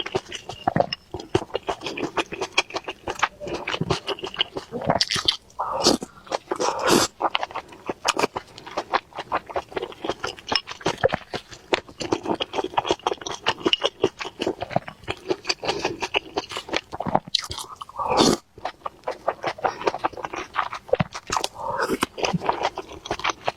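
Close-miked chewing and biting of food, a continuous run of quick wet mouth clicks and smacks.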